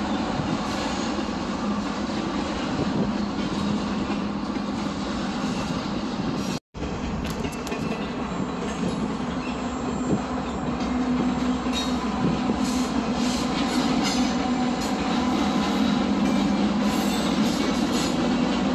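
CPKC train cars rolling past on the rails: a steady rumble with wheel-on-rail clatter. The sound cuts out for an instant about seven seconds in.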